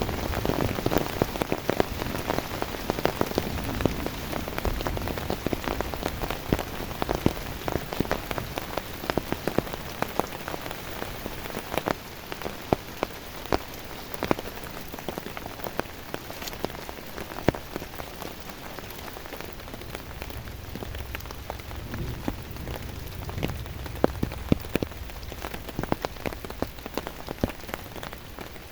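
Heavy rain falling steadily, with many sharp separate drop impacts ticking over the hiss; a low rumble joins about twenty seconds in.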